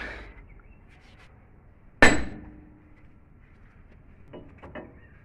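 A hammer striking steel on a JCB front axle's steering spindle, working the king pin out without a puller: one hard ringing blow about two seconds in, then a few light taps.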